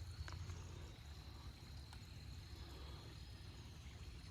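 Faint trickling water from a front-yard water feature fed by the drainage system, over a steady low rumble on the microphone.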